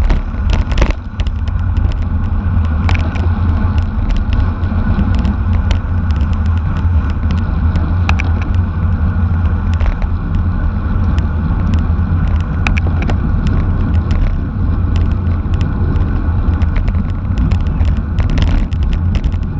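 Steady low rumble of wind and road noise from bicycle racing at speed, with scattered sharp clicks and ticks through it.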